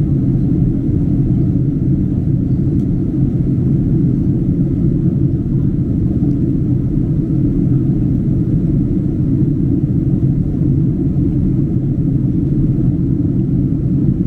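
Steady low rumble of a Boeing 767-300's cabin in flight: engine and airflow noise with a faint steady hum underneath.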